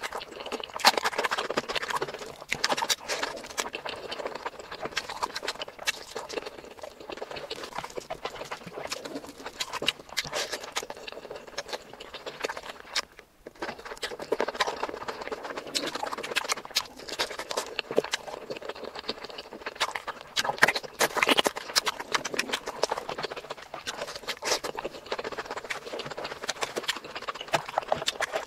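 Close-miked mukbang eating sounds: wet chewing, lip smacks and quick mouth clicks of someone eating mutton curry and rice by hand, with a brief break about thirteen seconds in.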